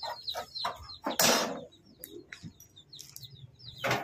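Small birds chirping, with a burst of hissing noise about a second in and a shorter one near the end.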